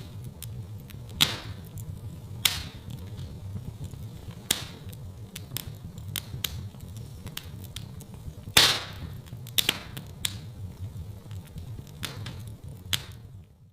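Wood fire crackling in a fireplace: a steady low rumble of flames under frequent sharp snaps and pops. A few pops stand out, the loudest about eight and a half seconds in.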